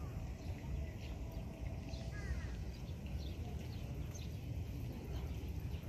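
Small birds chirping in the trees: scattered short high calls, with a pair of quick falling whistles about two seconds in, over a steady low rumble.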